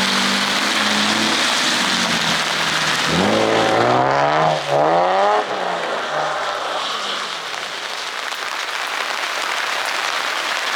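A drift car's engine revs up hard twice in quick succession, about three to five seconds in, with a brief drop between, then falls away. A steady hiss of rain and wet tyres runs underneath.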